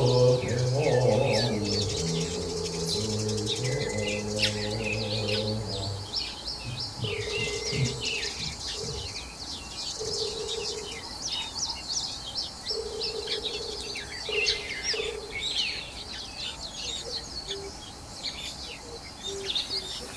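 Many small birds chirping and twittering in quick, short calls. For about the first six seconds a low sound of held notes that step in pitch runs underneath.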